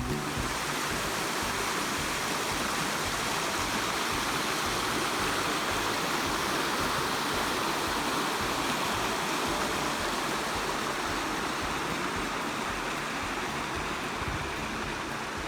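Running water, a steady rushing of a stream or small waterfall.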